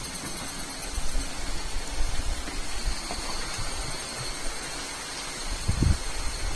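Steady rushing noise of flowing water from a stream, with a few low thumps about one, two and six seconds in.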